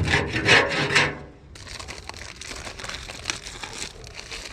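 Hand scraping and rubbing on a hard surface: a loud, rasping burst in the first second, then steady scraping with many small strokes.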